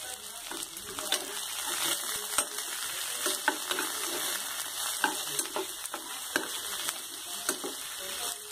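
White brinjal (eggplant) pieces, still wet from soaking in water, sizzling in hot oil with onions in a frying pan, with irregular scrapes and knocks of a spatula stirring them.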